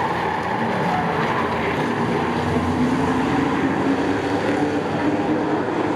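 Engines of racing trucks running laps on a short oval, a steady, continuous engine drone with no breaks.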